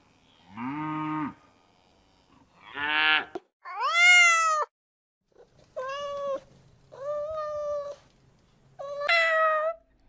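A calf gives a short, low moo about a second in, then a domestic cat meows several times, each meow about a second long.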